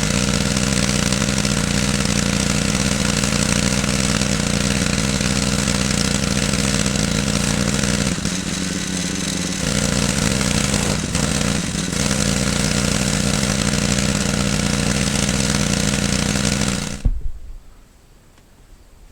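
An engine running steadily, then shut off about 17 seconds in.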